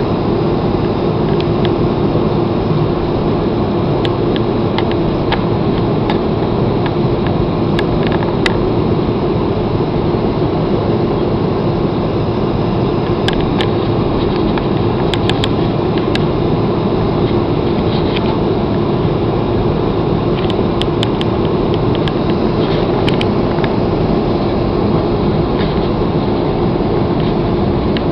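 Airliner cabin noise: the jet engines and air system run with a steady roar and a constant hum, with a few faint ticks here and there.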